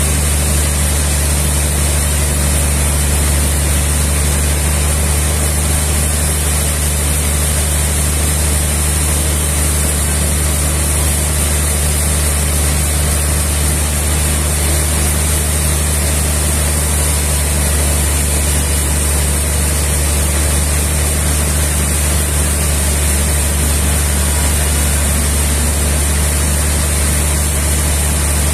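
A sawmill's engine running steadily at a constant speed, a loud, even hum with no change in pitch or level.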